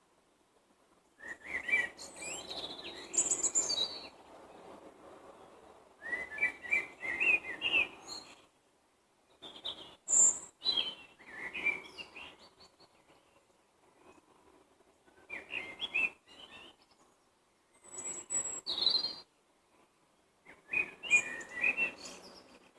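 Songbirds singing: short phrases of quick chirps and warbled whistles every few seconds, with quiet gaps between.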